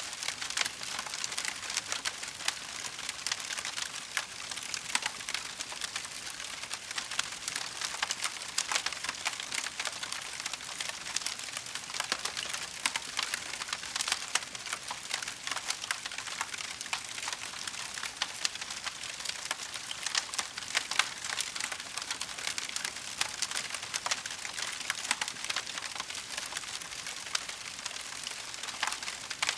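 Wood fire crackling in a fireplace: a steady dense stream of small pops and snaps.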